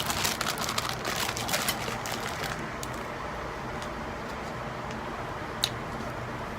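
Close-miked eating sounds, wet clicks and crunches of chewing pizza, for the first couple of seconds, then one small click near the end. Under it runs the steady whoosh of an electric fan.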